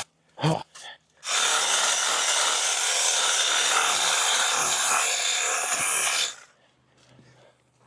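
A battery-powered cutting tool runs for about five seconds, cutting through overgrown brush, and then stops abruptly.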